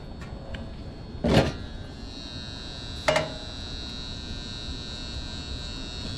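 Electrical hum and buzz from a relay in a gas furnace, which the technician first took for a loud transformer. A high steady whine sets in about two seconds in. Two sharp knocks come at about one and three seconds in.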